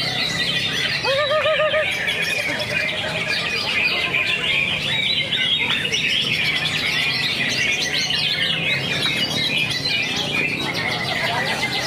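Greater green leafbird (cucak hijau) singing: a dense, continuous stream of rapid high chirps and trills. A lower warbling whistle comes in briefly about a second in.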